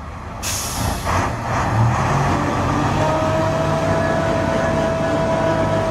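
Heavy truck engine running under load, getting louder about a second in, with a short hiss near the start and a steady whine joining from about three seconds in.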